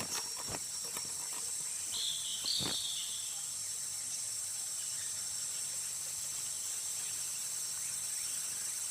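Forest ambience dominated by a steady, high-pitched insect chorus. There are a few sharp clicks near the start and a couple of brief high calls with a soft knock about two seconds in.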